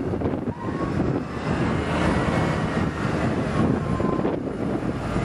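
Steady rushing noise of blizzard wind and city street traffic, with a low engine hum underneath.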